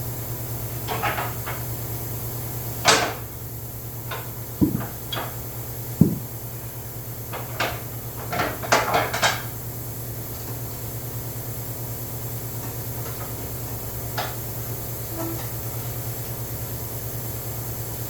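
Scattered metallic clicks and clanks of hand tools and parts, most of them in the first half with a quick cluster about nine seconds in, over a steady low hum.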